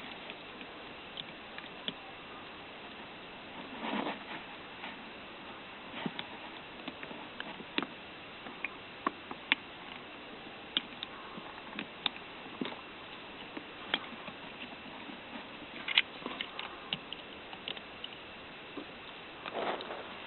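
Small irregular clicks and scrapes of hands working a plastic wiring-harness connector, prying terminal pins loose and moving wires between cavities.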